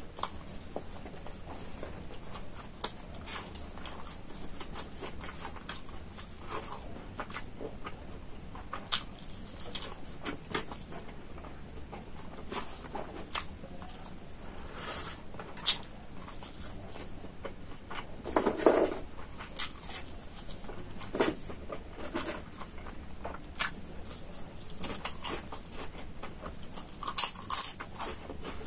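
Close-miked eating sounds of a person chewing and biting a mouthful of rice and chicken, with irregular crunches and mouth clicks. The crunches are loudest about two-thirds of the way through and near the end.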